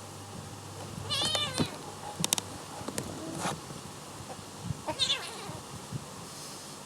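A cat meowing twice, about a second in and again about five seconds in, with a few sharp clicks between the two calls.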